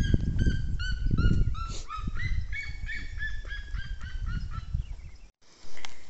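A bird calling a long run of short honking yelps, about four a second, the pitch stepping up and down, over a low rumble. It cuts off suddenly a little after five seconds.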